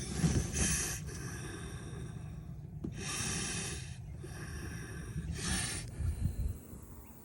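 Hen wood duck in a nest box giving breathy hisses in about three separate bursts of roughly a second each: a defensive warning at the intruder. A couple of low thumps come near the end.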